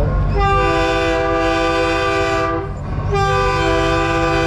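Train-style multi-chime air horn on a big rig sounding two long blasts, a chord of several notes, over a steady diesel engine rumble.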